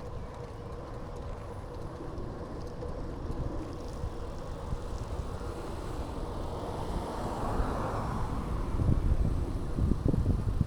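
Wind rumbling on the microphone while cycling, with a passing vehicle's noise swelling to a peak about eight seconds in and then fading; gusts pick up near the end.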